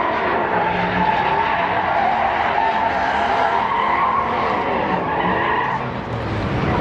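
Truck doing a burnout: tyres squealing steadily while the engine revs up and down about once a second.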